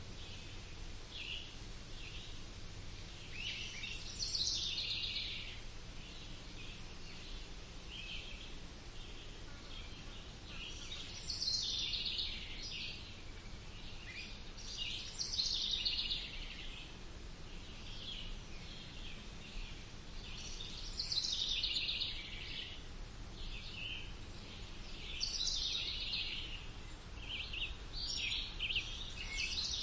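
Songbirds singing in a wood: short phrases of chirps and trills every few seconds, the loudest about 4, 11, 15, 21 and 25 seconds in, over a steady low background hum.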